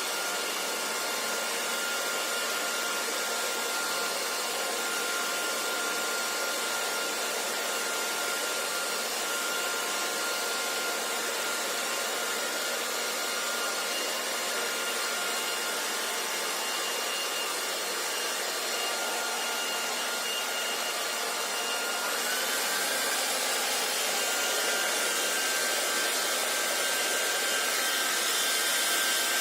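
Hair dryer running steadily: an even rush of air with a thin motor whine. About three-quarters of the way through, the whine steps up slightly in pitch and the sound gets a little louder.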